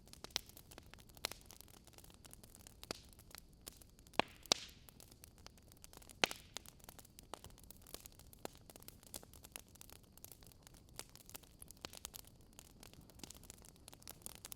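Wood crackling as it burns in a fireplace: a constant scatter of small, irregular crackles. A few sharper, louder pops come between about four and six seconds in, over a faint steady hiss.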